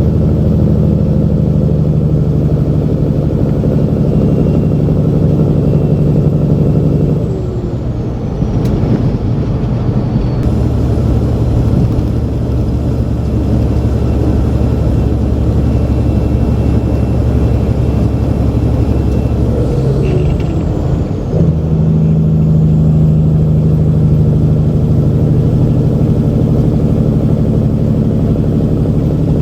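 Semi truck's diesel engine running steadily. About a quarter of the way in its note drops lower and deeper, then rises back to the higher note about two-thirds of the way through.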